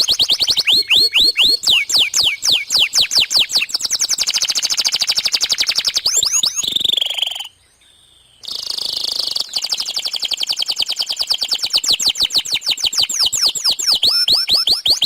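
Domestic canary singing continuously in long, rapid trills of repeated high notes that sweep downward, with a short break of about a second halfway through before the rolls resume.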